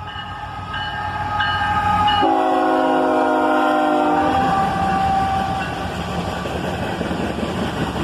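Freight locomotive's multi-chime air horn blowing as the train approaches, its chord dropping in pitch about two seconds in as the locomotive passes, then cut off about four seconds in. Afterwards the steady rumble of the train rolling by.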